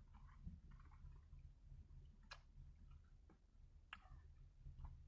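Near silence: room tone with a low hum and a few faint, isolated clicks.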